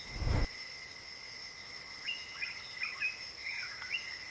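Night rainforest ambience: a steady, high insect drone, with a brief low whoosh at the start and a few short bird chirps about halfway through.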